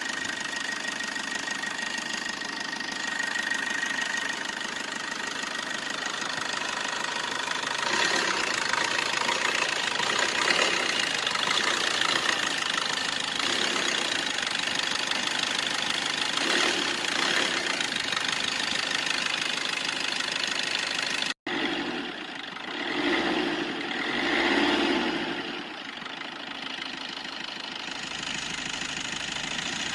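A motor vehicle engine running steadily. About two-thirds through it cuts out for an instant, then it swells up and down twice, like revving.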